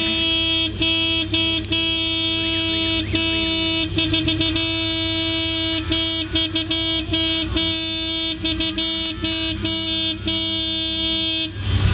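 Loud car horn sounding one steady note, held for about eleven seconds with a few very brief breaks, then released near the end.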